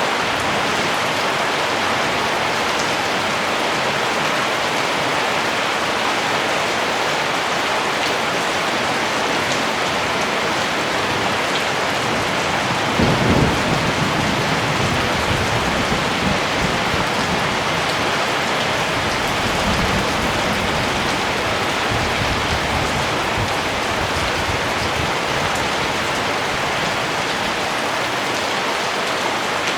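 Steady rain falling, a dense even hiss. About halfway through, a low rumble of distant thunder swells and rolls for several seconds before fading back under the rain.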